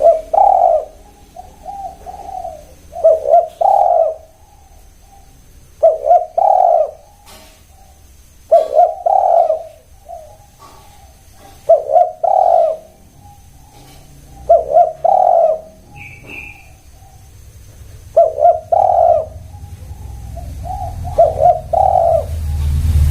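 Spotted dove (tekukur) cooing: a phrase of several low coos repeated eight times, about every three seconds. A short high chirp from another bird comes once, about two-thirds of the way through.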